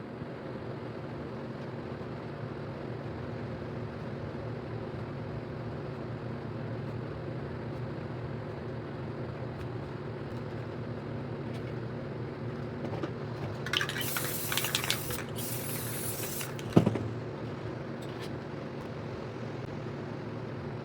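Aerosol spray paint can hissing in two short bursts about two-thirds of the way in, over a steady low hum. A single sharp knock follows right after, the loudest sound.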